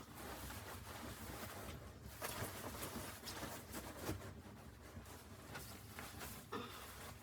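Faint, irregular rustling with scattered light clicks and knocks.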